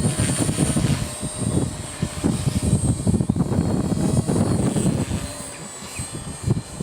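Align T-Rex 250 electric RC helicopter in flight, its motor and rotor giving a thin, steady high whine. Irregular gusts of wind buffet the microphone beneath it, easing off near the end.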